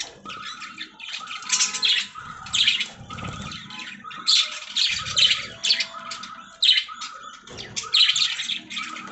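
Budgerigars chirping and squawking in a steady, busy stream of short high calls.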